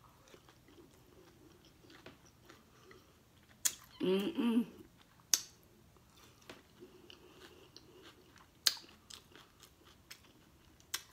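Close-up mouth sounds of a person eating a taco: quiet chewing with a few sharp wet smacks, and a brief hum of the voice about four seconds in.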